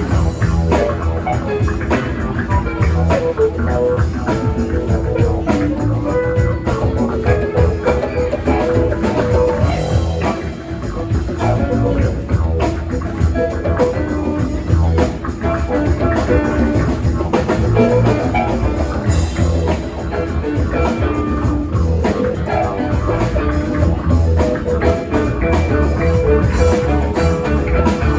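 A rock band playing live: electric guitar, bass and drum kit in a steady instrumental jam.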